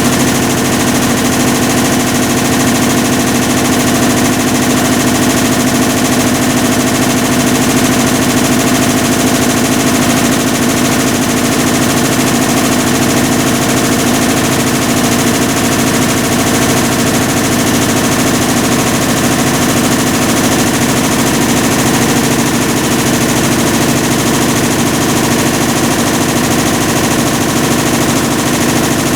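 Hitachi BEAT WASH BW-D8KV top-loading washing machine running with a loud, steady, rapid rattling grind: the abnormal noise of a failed clutch.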